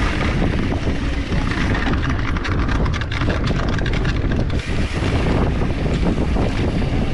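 Mountain bike riding fast over a rough, rocky dirt trail: wind buffeting the microphone, tyres on loose rock, and the bike rattling and clicking with many quick ticks.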